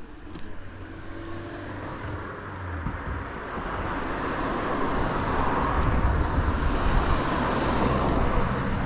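A car approaching and passing close by: its tyre and engine noise swells steadily, with a deep rumble underneath, and is loudest about seven seconds in.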